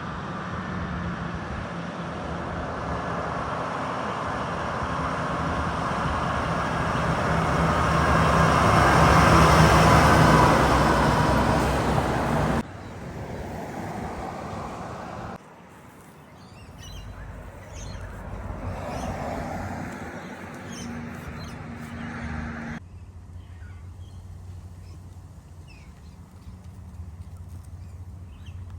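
Heavy truck engine running and growing louder as it comes close, loudest about ten seconds in, then cut off abruptly. After that come quieter stretches of distant engine hum with faint bird chirps.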